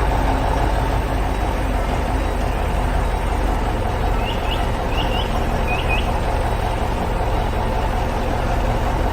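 A heavy vehicle's engine running steadily, a construction-machine sound effect, with three quick pairs of bird chirps about four to six seconds in.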